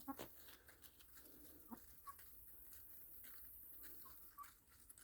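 Chickens pecking at watermelon rind: faint, irregular crunching pecks that sound like crushing ice, with a few soft short clucks.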